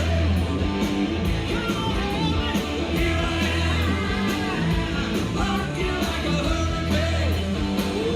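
Live hard rock band playing: distorted electric guitar, bass and drums, with some singing in the mix.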